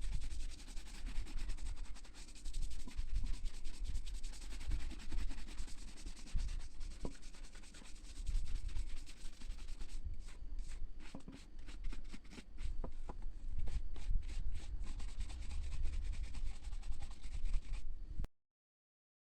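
Rapid scratchy rubbing strokes by hand on a shoe under repair, like brushing or sanding. The strokes become more separate about halfway through and stop abruptly near the end.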